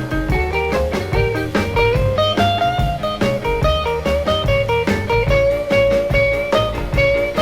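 Instrumental break of an early-1960s twist rock 'n' roll record: a lead melody line of held and bending notes over electric guitar, bass and a steady drum beat.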